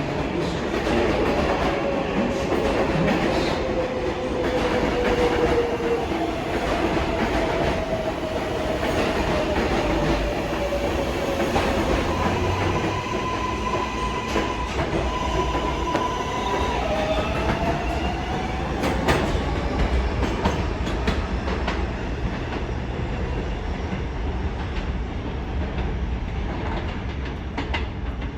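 R188 subway train running on elevated track through the station: steady wheel-and-rail rumble and clatter with the whine of its electric propulsion, falling in pitch over the first half, then holding steady and rising again past the middle.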